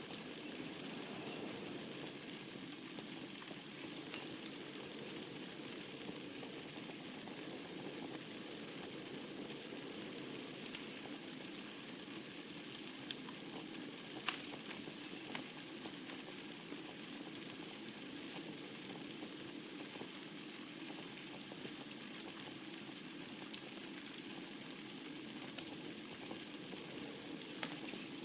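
Wood fire crackling in a fireplace: a steady low hiss with scattered sharp pops and snaps, the loudest about eleven and fourteen seconds in.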